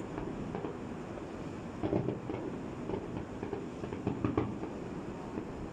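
Fireworks: a steady rumble with a few louder bangs about two seconds and about four seconds in.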